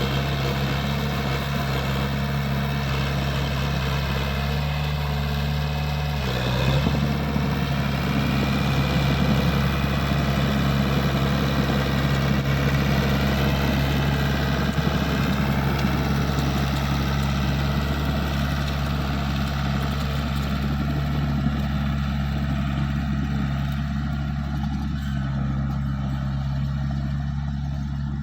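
Diesel engine of a small Komatsu bulldozer, a 4D92 four-cylinder, running steadily. About six seconds in its pitch dips briefly, then it runs a little louder for several seconds before settling back.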